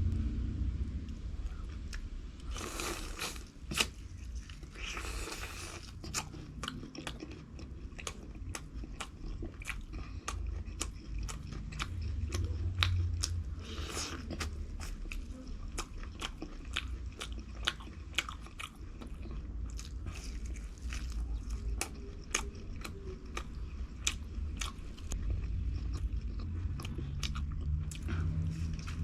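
Close-miked chewing and crunching of fried food, with many sharp mouth clicks throughout and louder crunchy bites about three and five seconds in.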